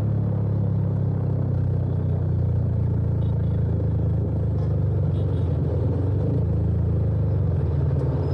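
Yamaha FZ25's single-cylinder engine running steadily at low revs through an aftermarket full-system exhaust with a replica Akrapovič slip-on, a deep even exhaust note without revving.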